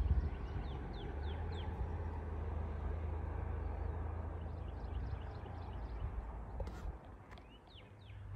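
A small bird calling with quick descending chirps: four in the first couple of seconds, a run of short chirps about five seconds in, and two more near the end. Under it a steady low outdoor rumble eases off about seven seconds in.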